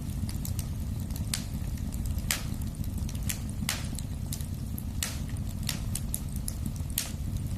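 Wood fire crackling: sharp pops and snaps at irregular intervals, about a dozen, over a steady low rumble of the burning fire.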